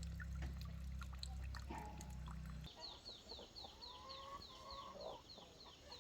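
Chickens clucking and chirping, a quick run of short, high, falling chirps. Before it a low steady hum cuts off about two and a half seconds in.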